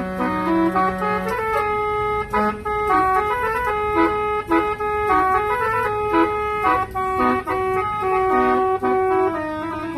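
Multi-tone musical horn on an old Mercedes-Benz playing a Minang melody: a run of held notes stepping up and down, often several sounding together.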